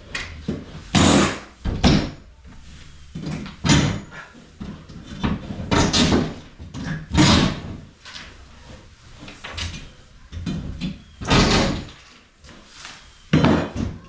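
A series of irregular loud bangs and knocks, about a dozen, some short and sharp and some drawn out a little, as in knocking and banging during repair work.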